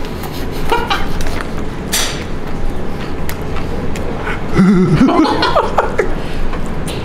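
Chewing a mouthful of crispy fried chicken, with a few short crunches, over a steady low rumble. About four and a half seconds in, a man gives a wavering hum of pleasure at the taste.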